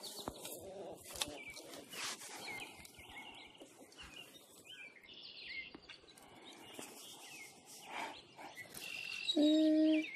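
Small birds chirping and calling in the open. Near the end comes one short, loud call held on a steady pitch.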